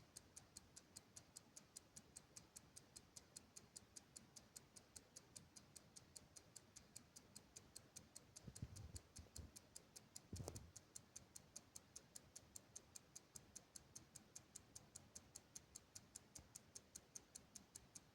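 Clock ticking fast and steady, about four to five ticks a second. There is a low rumble about halfway and a louder single knock shortly after it.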